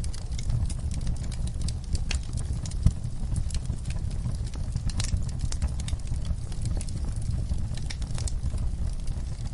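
Wood fire in a fireplace crackling, with irregular sharp pops over a steady low rumble of the flames; one louder pop about three seconds in.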